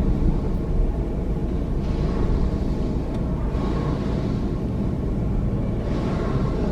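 Car driving, with a steady low road-and-engine rumble heard from inside the cabin and soft swells of tyre hiss every couple of seconds.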